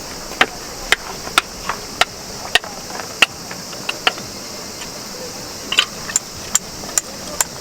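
A hammer striking repeatedly, about two sharp, ringing blows a second with a short pause in the middle, over a steady high hiss.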